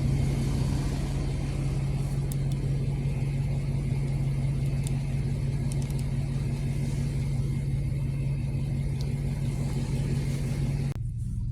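A motor vehicle's engine running steadily at a constant pitch with a broad rushing noise. It stops abruptly about a second before the end.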